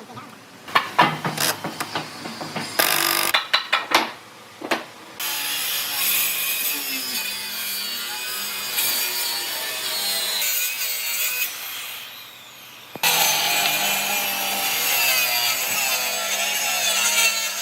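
A tool working wood: a few sharp knocks and short scrapes, then a long, steady cutting or scraping sound on wood. It breaks off briefly about twelve seconds in and then carries on.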